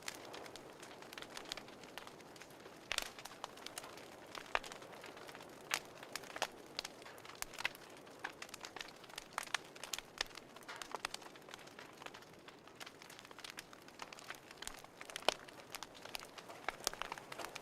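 Wood fire crackling in a fireplace: irregular sharp pops and snaps of varying loudness over a soft steady hiss.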